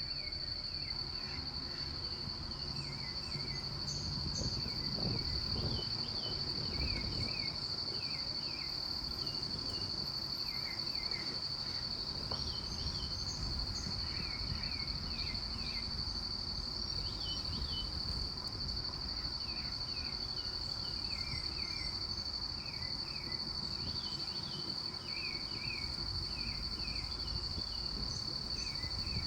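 Insects, crickets by their kind, trilling in one steady high unbroken note, with short falling chirps repeated in small groups every few seconds over a low rumble.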